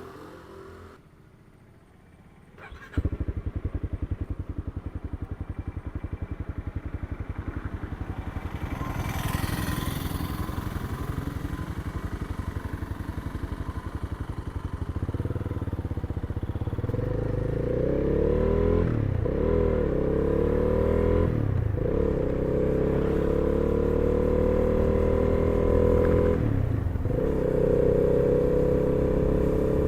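Honda CB300R's single-cylinder engine starting about three seconds in and idling, then pulling away and accelerating, its pitch rising and dropping three times as it shifts up through the gears.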